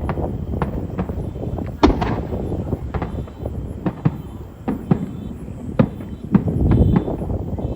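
Aerial fireworks shells bursting in quick, irregular succession: a string of sharp bangs over a steady low rumble, the loudest about two seconds in.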